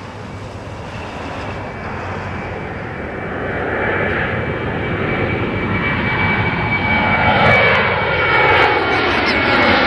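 Airplane flying over, its engine noise growing steadily louder, with a steady high whine; late on, its tones slide down in pitch as it passes.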